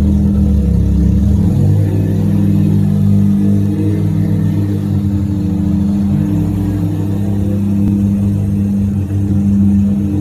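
Mazda RX-7 FD's rotary engine running at low, steady revs with a deep, even drone.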